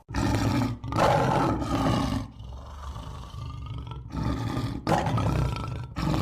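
Lion roaring: a series of rough, loud roars broken by short pauses.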